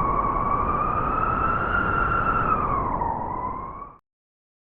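Howling blizzard wind: a whistling tone that rises slowly and then sags, over a rough low rumble, cutting off suddenly about four seconds in.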